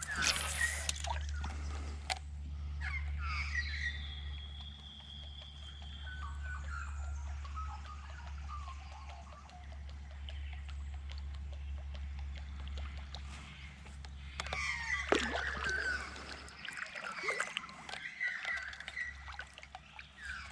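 Water splashing and dripping around a kayak, in two louder spells, one at the start and one about fifteen seconds in. A bird calls in the background, and a steady low hum runs underneath.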